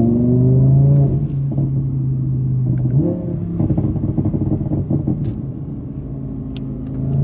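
Car engine revving and settling back, then a throttle blip about three seconds in followed by a run of crackling exhaust pops before it drops back to a steady idle.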